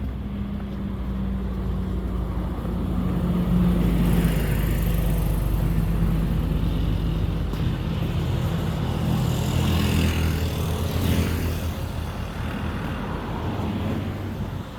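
City street traffic: a vehicle engine running close by with a steady low hum, and passing cars whose tyre and engine noise swells from about four seconds in and fades after about twelve seconds.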